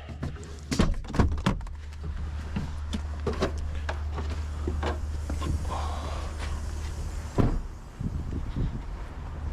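Truck diesel engine idling with a steady low hum, under a series of sharp knocks and clicks like a cab door and fittings being handled, the loudest about a second in and again near seven and a half seconds.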